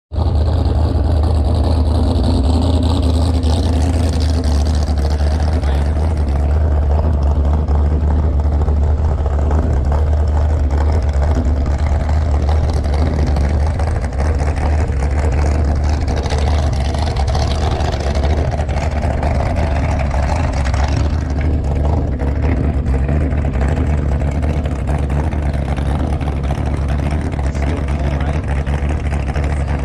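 Motorboat engine running steadily with a deep, constant low rumble and rushing noise over it.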